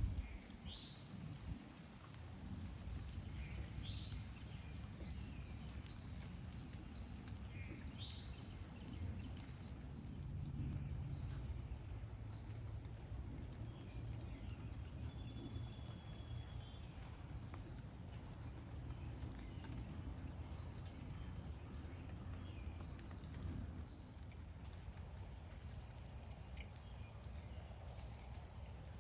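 Small birds chirping: many short, high chirps throughout, with a few louder down-slurred calls in the first several seconds. A steady low background rumble runs underneath.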